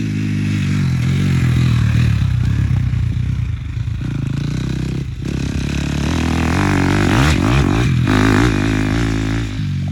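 Dirt bike engine revving up and down as it rides around a track, its pitch rising and falling with the throttle, which is shut off briefly about five seconds in and again near eight seconds.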